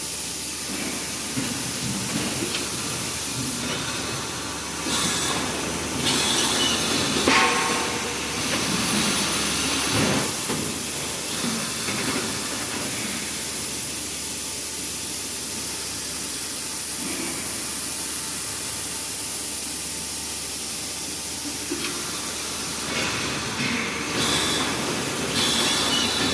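Plastic food-wrapper printing machine running: a steady mechanical clatter with a strong hiss, broken by a few louder knocks.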